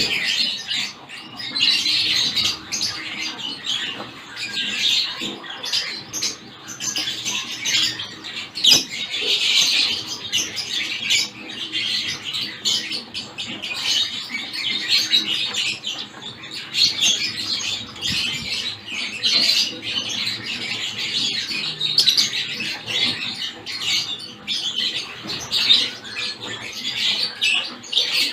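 A mixed group of small finches, such as zebra finches, Gouldian finches and society finches, chirping and chattering continuously, many short calls overlapping.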